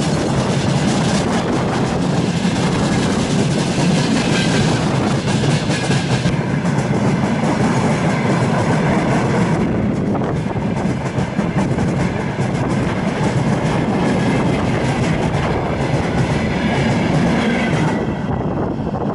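Freight train wagons rolling past close by, a steady heavy rumble with wheels clattering over the rail joints. The high rattle thins out shortly before the end.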